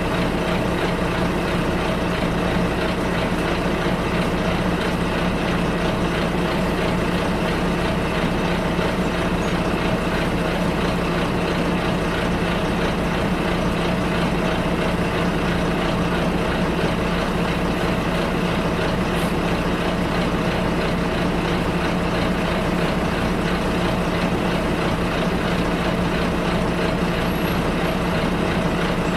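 Steady drone of a bus engine and road noise heard from inside the bus, an even hum with no sudden events.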